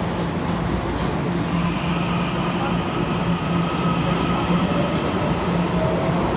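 A Puyuma Express TEMU2000 tilting electric multiple unit runs through an underground station platform without stopping. Its wheels and motors make a steady rolling rumble with a low hum, and a higher hiss joins about a second and a half in. The sound grows a little louder toward the end.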